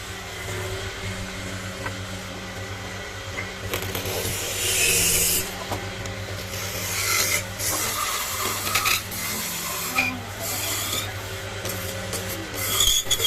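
Wood being rasped or abraded with a carving tool, in irregular scraping strokes over a steady low hum. The scraping is loudest about four seconds in and again about seven to nine seconds in.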